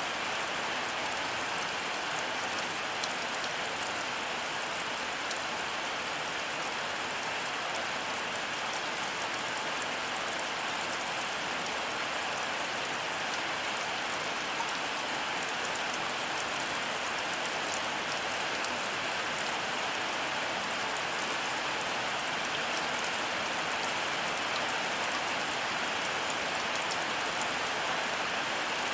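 Heavy rain falling steadily: a dense, even hiss of drops with fine ticks of individual drops on top.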